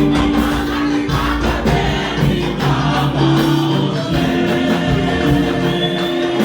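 Church choir singing a gospel anthem with instrumental backing: long held notes over a bass line and steady percussion.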